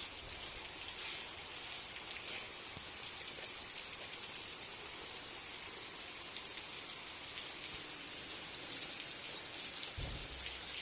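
Steady rain falling: an even hiss with scattered drop taps. A brief low rumble comes about ten seconds in.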